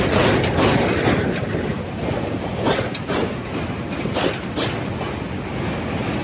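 Jan Shatabdi Express passenger coaches rolling past on a steel bridge: a steady rumble with the wheels clacking over rail joints in irregular pairs.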